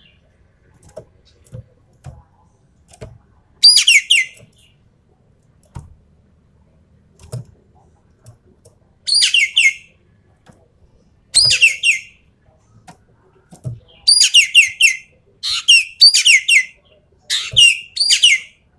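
Ekek keling bird calling in short, loud, high-pitched bursts, each under a second long; the bursts come several seconds apart at first, then in quick succession during the last five seconds.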